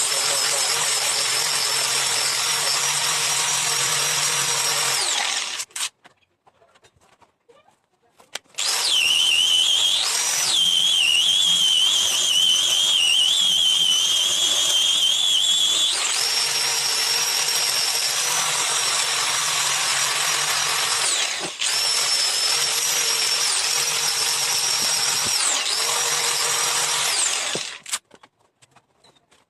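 Electric power tool running with a high whine, stopping twice for a few seconds and starting again. After the first restart its pitch is lower and wavering for several seconds, then it returns to a steady higher whine.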